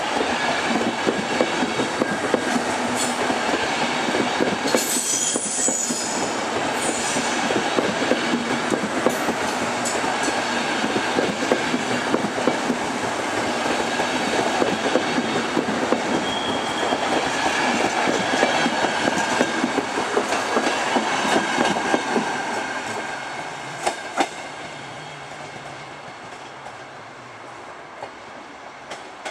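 Passenger coaches of a departing express train rolling past, wheels clicking and clattering over the track, with high wheel squeals in the first several seconds. The rolling noise fades away over the last several seconds as the train pulls out.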